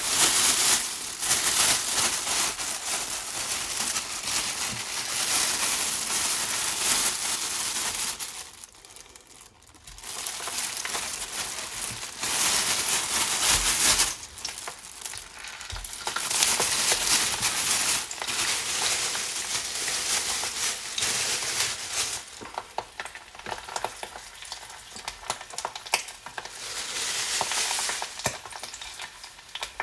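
Sausages frying in a pan, a steady sizzle that swells and eases, dropping away briefly about eight seconds in and quieter over the last several seconds.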